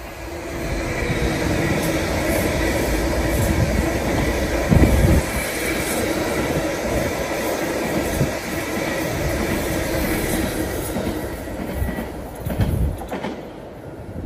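A train passing close by: a steady heavy rumble of wheels on rail with a few louder knocks, fading away near the end.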